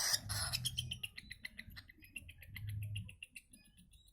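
Small pet bird giving a rapid run of short, high squeaky chirps, several a second, that fade out about three and a half seconds in.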